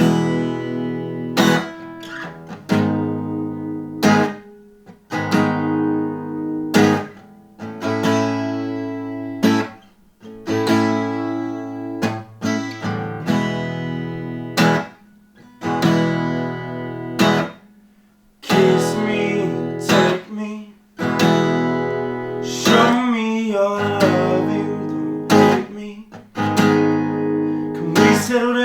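Acoustic guitar strummed in a steady rhythm, a chord struck roughly every second and left to ring between strokes. A singing voice comes in over the guitar in the last third.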